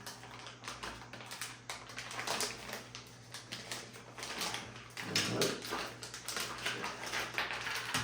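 Cardboard boxes and paper packaging being handled: irregular rustling, light taps and clicks. There is a brief low, voice-like sound about five seconds in.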